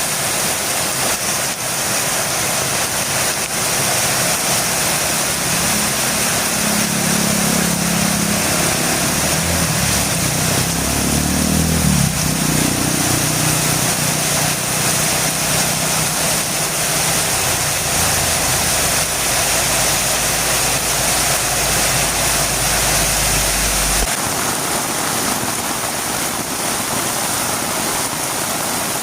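Heavy rain falling steadily on a road. A motor vehicle's engine hum rises in pitch and then drops as it passes about 12 seconds in, and a deep rumble cuts off suddenly near 24 seconds.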